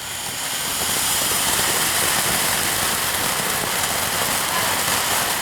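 Lit fireworks spraying sparks with a loud, steady hiss that swells over the first second and then holds even.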